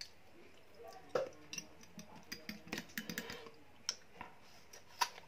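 Close-up chewing of crisp, unripe green Indian mango: irregular wet crunches and mouth clicks, most frequent in the middle.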